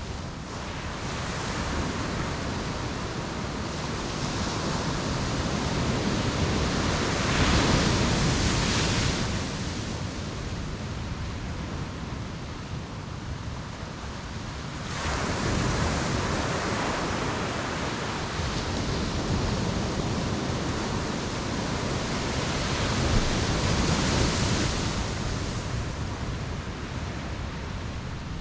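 Ocean waves breaking on a beach: a continuous wash of surf that swells and ebbs, with a bigger wave crashing about a third of the way in and another near the end.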